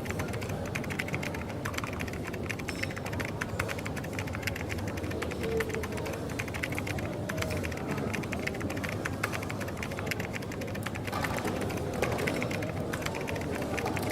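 Rapid, continuous clicking of typing on a keyboard over the steady low hum of a coffee shop.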